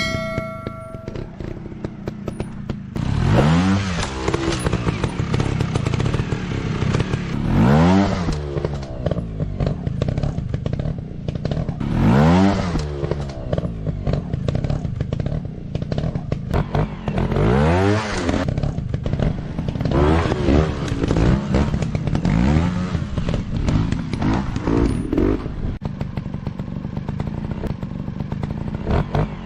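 Dirt-bike engines running, the pitch repeatedly climbing and dropping every few seconds as the riders rev through throttle on and off, over a constant drone of other bikes.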